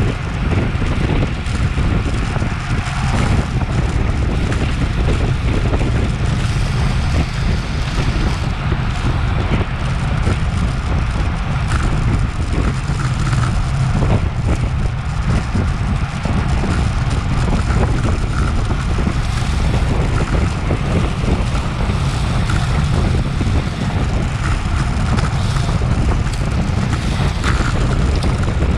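Wind buffeting the microphone of a bike-mounted Garmin VIRB action camera while riding in a road cycling race: a steady, loud low rumble.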